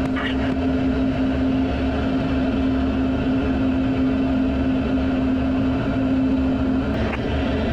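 Steady cockpit noise of a fighter jet in flight, engine and airflow, with a low rumble and a steady hum that stops about seven seconds in.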